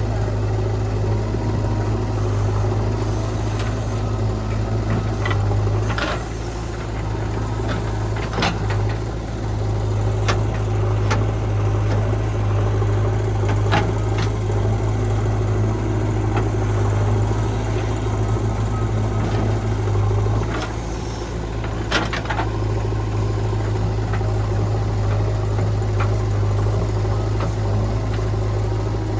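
Diesel engine running steadily at an even pitch, with several sharp knocks scattered through.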